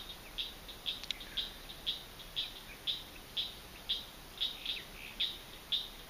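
A bird repeating a short, high chirp about twice a second, steady and unbroken.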